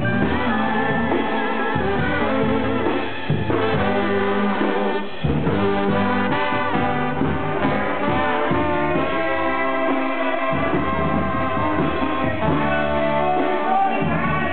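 A Mexican brass band playing, with trombones and trumpets carrying the melody and a steady loud full-band sound.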